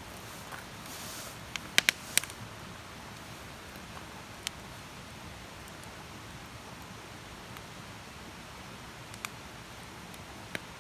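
Wood fire burning with a steady soft crackle and a few sharp pops, the loudest a quick run of three about two seconds in, with a brief hiss just before them.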